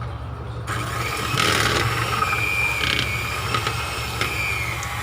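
Electric mixer running steadily, beating cream cheese in a bowl, with a rougher scraping noise from the beaters joining in about a second in.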